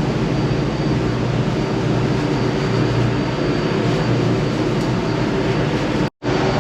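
Steady, loud engine-room machinery noise: an even mechanical hum and rush heard from inside the main engine's scavenge space, dropping out for a split second near the end.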